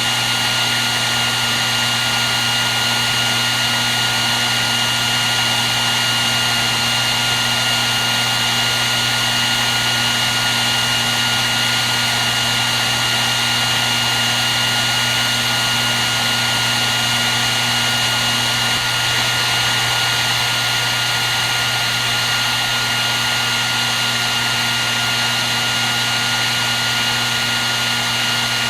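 Hair dryer running steadily at one speed: a constant rush of air with a steady high motor whine and a low hum, unchanging throughout.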